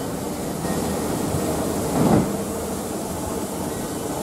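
Electric suburban train in an underground station: a steady low rumble with faint steady tones, and one louder thud about two seconds in.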